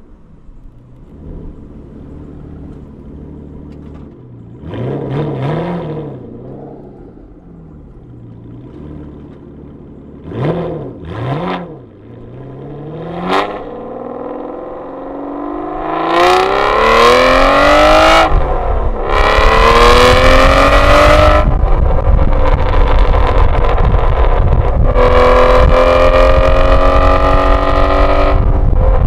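2011 Aston Martin V12 Vantage's V12 engine through a valved Velocity AP exhaust with secondary cat deletes. It idles with a few short throttle blips, then accelerates hard with the pitch climbing and runs loud at high revs for the last ten seconds or so.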